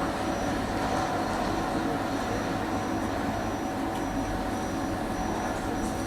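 Electric tram running along the track: a steady rumble of wheels on the rails, with a steady hum from the drive.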